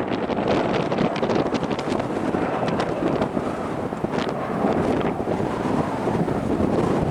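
Strong gusty wind buffeting the camera microphone: a steady heavy rumble with frequent short crackling pops as gusts strike the mic.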